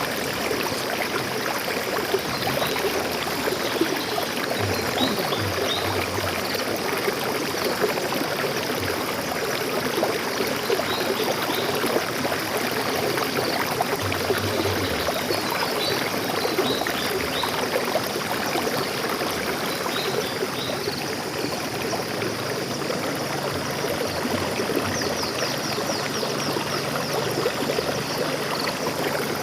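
Stream water flowing and splashing steadily over rocks, with faint high bird chirps here and there and a quick, rapid bird trill near the end.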